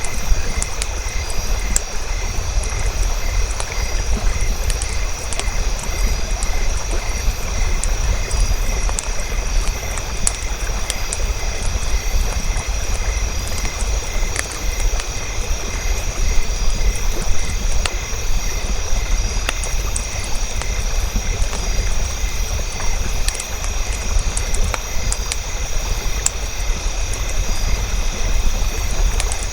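Campfire crackling: sharp pops and ticks over a steady low rumble, with a faint high tone pulsing about twice a second in the background.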